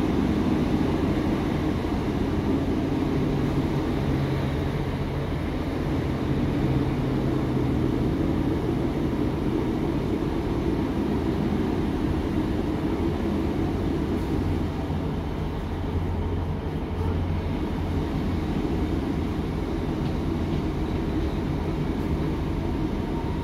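Inside the carriage of a British Rail Class 150 Sprinter diesel multiple unit on the move: steady running noise with the hum of its underfloor Cummins turbo-diesel. The engine note drops lower about halfway through.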